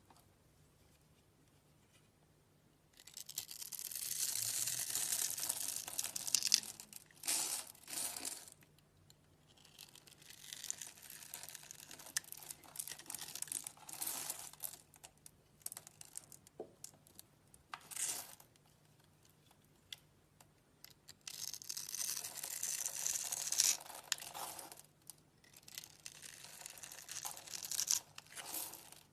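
Slime worked by hand, stretched, pressed and pulled apart, giving crackly, hissing noise in bursts of a few seconds with quieter pauses between. The first burst starts about three seconds in.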